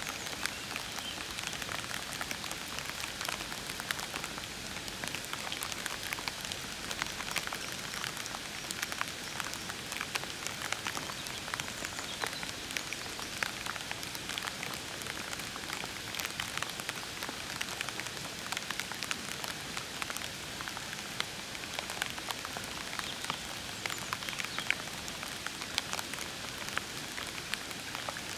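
Steady rain falling, with many individual drops pattering and ticking on leaves and surfaces.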